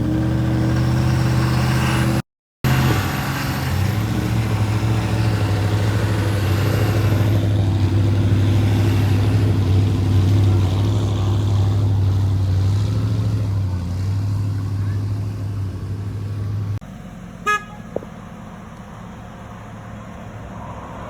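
A truck's engine running with a loud, steady low drone. About two seconds in there is a brief dropout, and near the end the sound cuts off abruptly to a quieter background with a couple of short clicks.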